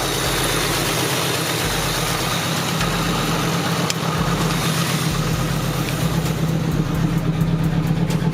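Pickup truck's engine running steadily at idle, with a rhythmic pulsing that grows plainer near the end.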